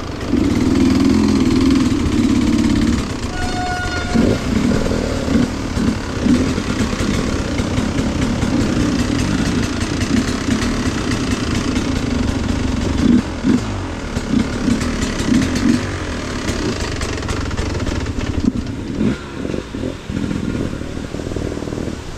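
Off-road vehicle engine running, steady for about three seconds and then revving up and down unevenly, with some clatter.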